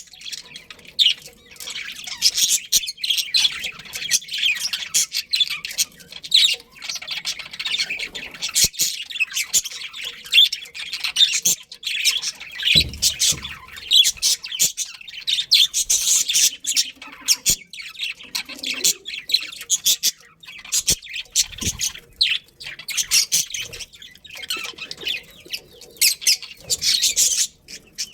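Budgerigars chirping and chattering nonstop in quick, high twitters and squawks, with a couple of brief low bumps partway through.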